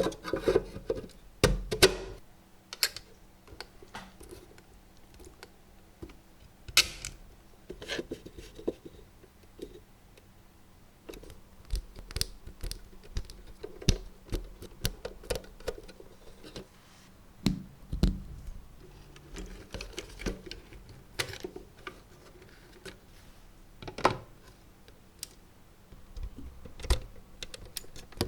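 Irregular small clicks, taps and light knocks of metal and plastic parts and tools being handled on a workbench, with a faint steady hum underneath.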